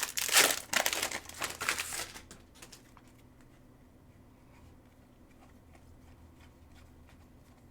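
Foil wrapper of a Mosaic football hobby card pack being torn open and crinkled for about two seconds, then only faint scattered ticks.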